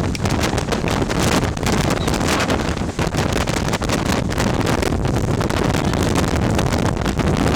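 Strong gusty wind buffeting the microphone: a loud, continuous rumble broken by rapid ragged crackles.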